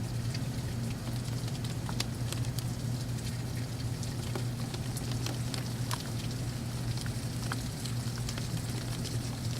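Heavy thunderstorm rain falling steadily, with many individual drops spattering sharply on nearby surfaces, over a steady low hum.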